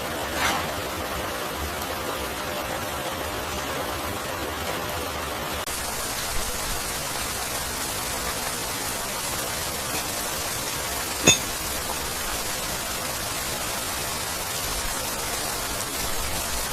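Steady rain falling, an even hiss that grows brighter about six seconds in. A single sharp click about eleven seconds in stands out above it.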